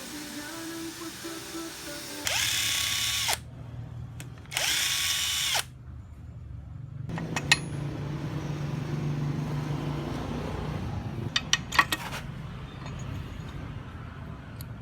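A handheld power tool runs in two short bursts of about a second each, with a quick spin-up at the start of each. A few sharp metallic clicks follow later.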